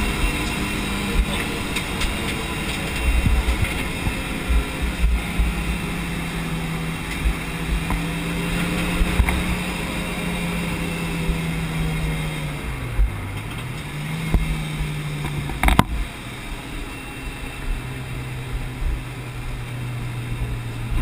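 Stock Mitsubishi Lancer Evolution VI Tommi Mäkinen Edition RS's turbocharged four-cylinder engine heard from inside the cabin at track pace, holding a steady high note that dips briefly and picks up again a little past halfway. A single sharp knock follows soon after, then the engine settles at a lower pitch, over a constant low rumble and thumping from the car.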